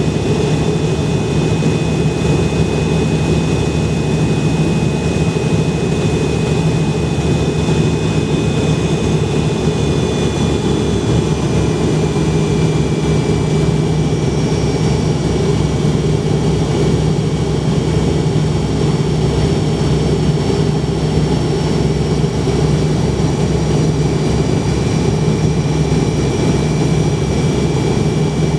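Inside the cabin of a McDonnell Douglas MD-82, the rear-mounted Pratt & Whitney JT8D turbofans run with a steady low hum and thin high whines. The whines shift in pitch partway through as the engine thrust changes.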